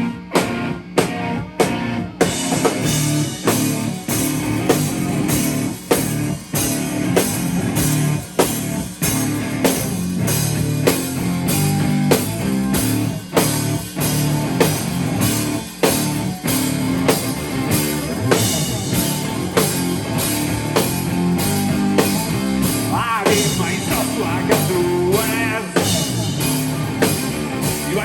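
Live rock band playing with a steady drum-kit beat. The drums start out nearly alone, and the electric guitar comes in about two seconds in.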